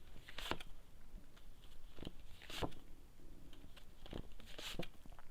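A few faint, sharp clicks and taps of tarot cards being handled and laid down.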